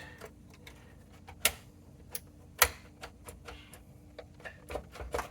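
Irregular sharp clicks and light knocks as the oscilloscope's parts and wiring are handled while a snagged assembly is worked loose from the chassis. The loudest clicks come about a second and a half and two and a half seconds in, with a quick cluster near the end.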